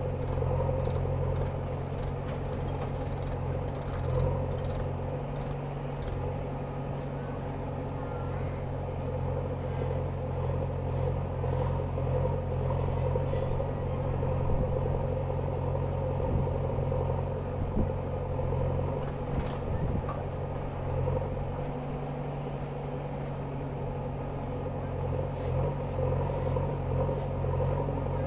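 Diesel engine of a JCB 3DX backhoe loader running steadily, its note shifting a little as it works. A run of faint high clicks sounds in the first several seconds.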